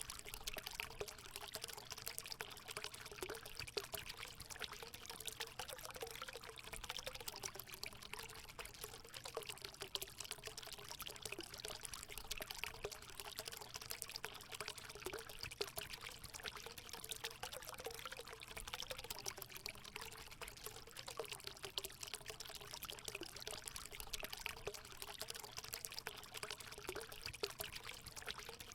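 Water running and trickling steadily into a hot spring pool, a continuous splashing pour.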